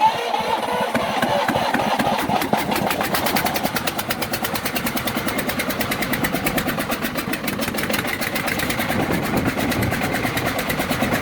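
Old diesel engine running with a rapid, even knocking that settles into a steady rhythm about two seconds in.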